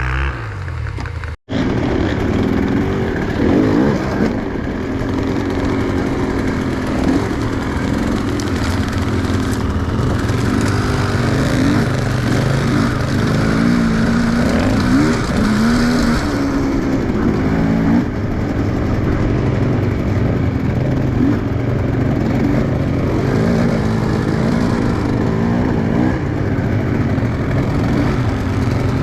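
Enduro motorcycle engine revving up and down under load, its pitch rising and falling again and again, with a momentary cut-out about a second and a half in.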